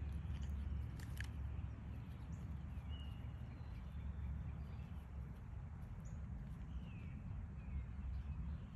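Outdoor ambience: a steady low rumble with a few short, high, falling bird chirps, several of them near the end.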